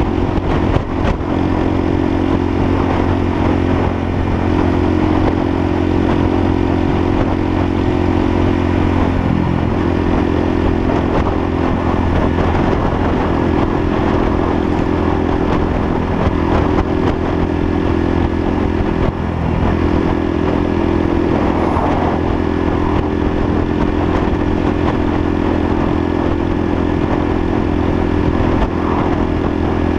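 Lexmoto LSM 125's single-cylinder 125cc engine running steadily while the motorcycle is ridden. The engine note shifts briefly about ten seconds in and again near twenty seconds.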